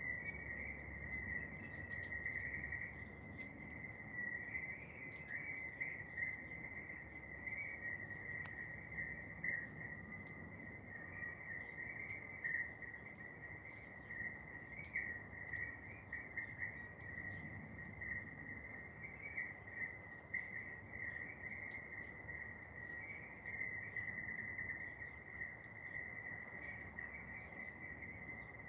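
A continuous trilling insect chorus, typical of crickets, holding one steady pitch, with a few faint short bird chirps above it.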